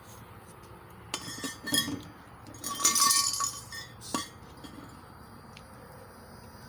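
Metal clinking and rattling in a few short bursts, the loudest about three seconds in with a brief ring, then one sharp clink about a second later.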